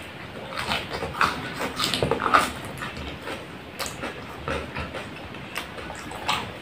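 Close-up chewing of a mouthful of burger: irregular wet smacking and clicking mouth sounds, loudest a little over two seconds in.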